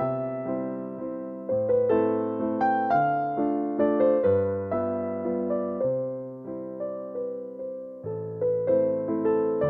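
Background music: a gentle electric piano playing struck, slowly decaying notes over held bass notes that change every second or two.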